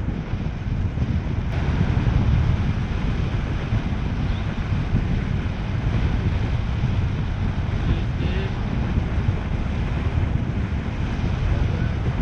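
Wind buffeting the microphone outdoors: a continuous, uneven low rumble that gets a little louder about a second and a half in.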